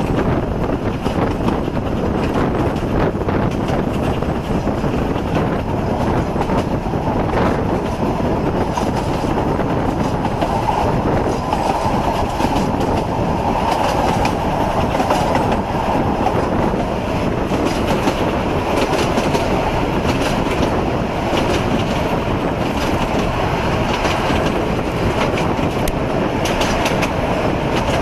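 Steady running noise of a carriage on the 3 ft gauge Isle of Man steam railway, wheels rumbling and clicking over the rail joints, heard from the open window of the moving train.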